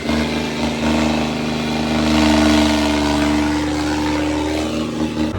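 Eicher 557 tractor diesel engine running hard at steady high throttle, pulling against a load in a tractor tug-of-war, with a rougher noise swelling about halfway through.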